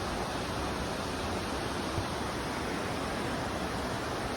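Steady rush of a fast-flowing jungle river, an even noise with no break.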